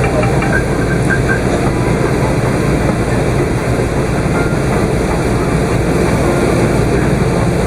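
Steady engine and airflow rumble heard inside the cabin of an Airbus A380-800 airliner, loud and even throughout.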